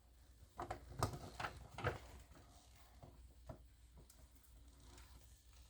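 Faint handling noises: a handful of soft taps and knocks, bunched in the first two seconds with one more a little later, over a low room hum.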